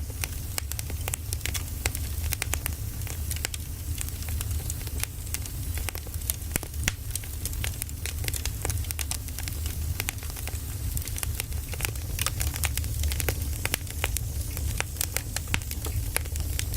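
Burning firewood crackling, with frequent sharp pops and snaps over a steady low rumble.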